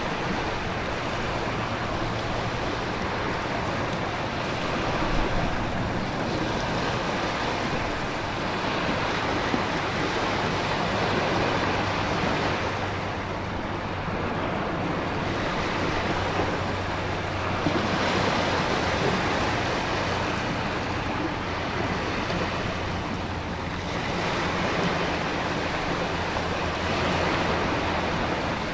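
Storm ambience of heavy rain and surging ocean waves with wind: a dense, steady wash of noise that eases and swells again every few seconds.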